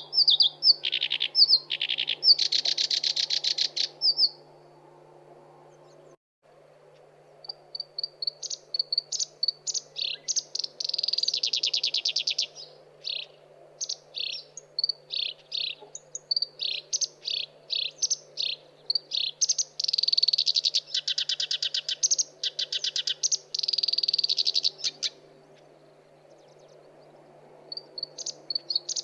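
Black-browed reed warbler song: bouts of rapid, repeated high chattering notes with pauses of a few seconds between them, over a faint steady low hum.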